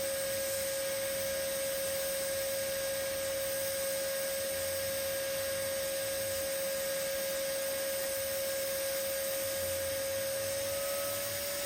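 TIG (GTAW) welding arc running steadily on carbon steel, a constant high hum over a hiss, with the hum's pitch stepping up slightly near the end.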